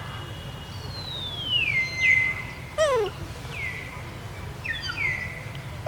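High whistled animal calls, several in a row, each sliding down in pitch and then holding steady. A quick series of sharply falling chirps comes about halfway through and again at the end, over a steady low hum.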